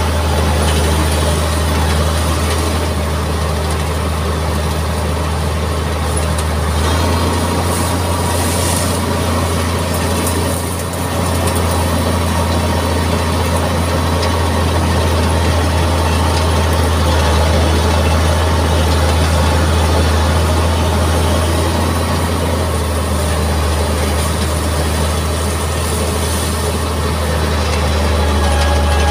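Mitsubishi MG330 motor grader's diesel engine running steadily with a deep hum, dipping briefly about eleven seconds in.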